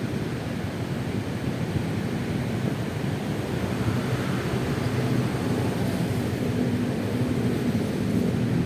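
Honda Vario 125 scooter's single-cylinder engine running under way, mixed with wind and road noise; the level rises slightly toward the end.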